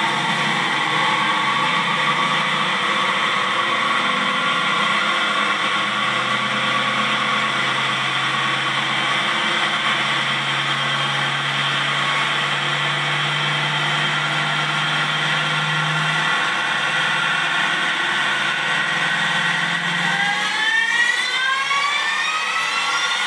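Supercharged V8 of a 2003 Ford F-150 Harley-Davidson Edition running steadily on a chassis dyno. About 20 seconds in, its high whine and engine note start rising together as the engine revs up.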